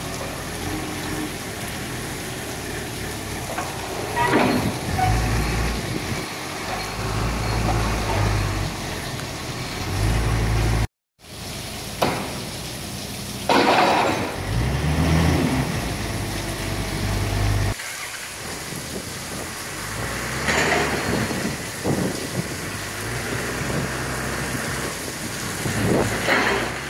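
Steady hiss of rain with a low rumble that swells and drops away, and a few scattered knocks or clanks. The sound cuts out for a moment about eleven seconds in.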